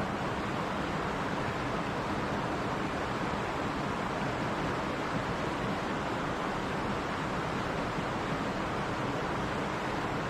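Mountain stream rushing and splashing in a steady, even flow.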